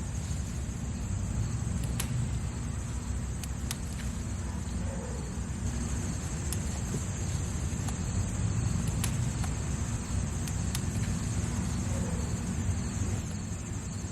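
Outdoor garden ambience: a steady high insect chirring, like crickets, over a continuous low rumble, with a few faint clicks.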